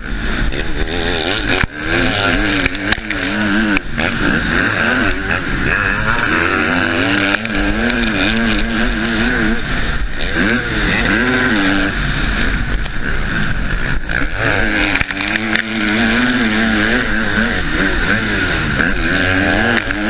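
Husqvarna motocross bike's engine being ridden hard, the revs climbing and dropping again and again over a steady rushing noise, with a few brief sudden dips in the sound.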